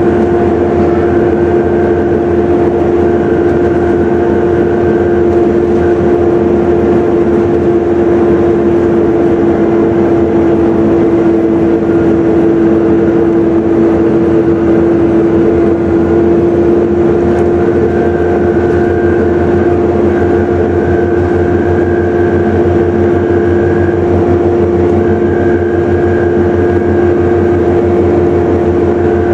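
Volvo B7TL double-decker bus heard from on board: its six-cylinder diesel running under a loud, steady vacuum-cleaner-like whine, the 'hoover' sound this bus type is known for. The whine holds one pitch throughout, with a fainter higher tone coming and going above it.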